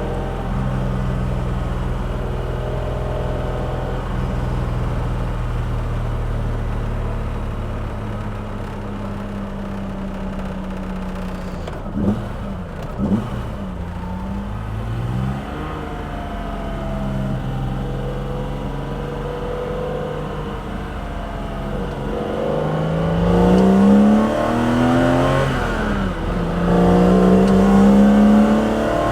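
BMW S38B36 3.6-litre inline-six with individual throttle bodies, induction and exhaust. It runs steadily at cruise, gives two quick throttle blips about twelve seconds in, then pulls hard from about 23 seconds. The revs rise, drop at a gear change and rise again near the end.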